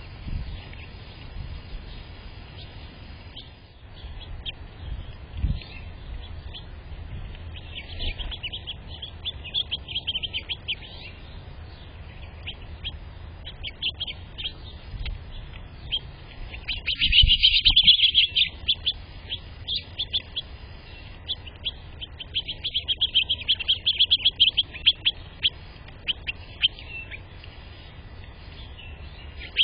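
Small birds chirping in quick bursts of short, high notes, the loudest burst about two-thirds of the way in.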